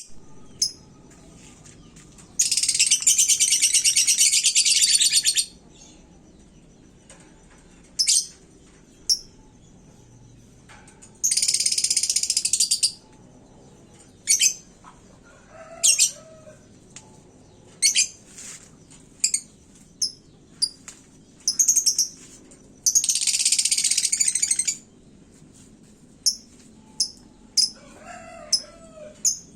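Lovebird singing: three long, rapid, high-pitched trills of two to three seconds each, with short sharp chirps between them.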